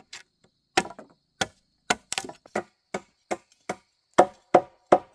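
Wood being chopped with a blade: about a dozen sharp blows at an uneven pace, two to three a second, coming a little closer together near the end.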